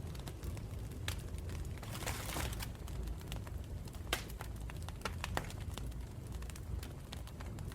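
Campfire burning with a steady low rumble of flames and irregular sharp wood crackles and pops, and a brief hiss about two seconds in.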